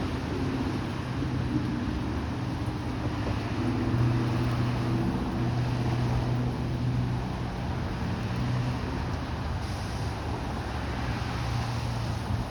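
A steady low engine drone under a constant noisy hiss.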